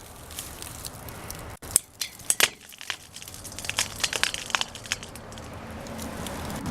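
Footsteps crunching over loose rubble: a run of irregular crunches and clicks.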